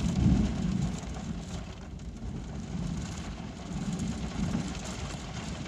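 Rain falling steadily during a thunderstorm, under a low rumble of thunder that is loudest in the first half second and then eases off.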